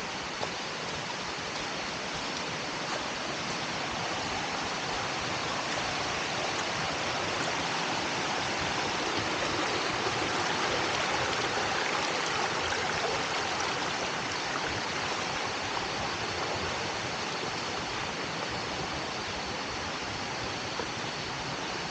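Rushing water of a forest stream and waterfall, a steady rush that grows slightly louder around the middle.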